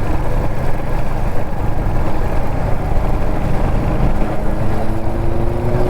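Kawasaki Z900 inline-four motorcycle running at road speed under heavy wind rush on the helmet microphone. The engine note climbs slightly near the end.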